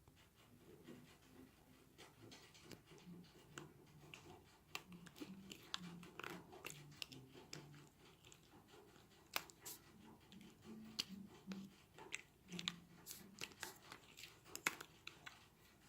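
Slime being pressed and worked with a spoon: faint sticky clicks and crackles, irregular and thickest in the middle and near the end.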